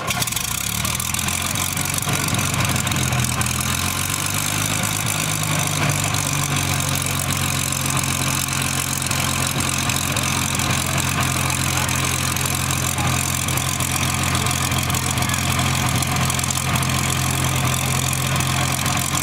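Hawker Hurricane's Rolls-Royce Merlin V12 engine just after firing up. It runs a little unevenly for the first few seconds, then settles into a steady idle.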